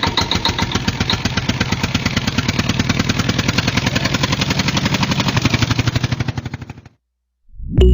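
A small motor-driven mechanism running with a fast, even chugging clatter, then stopping abruptly about seven seconds in.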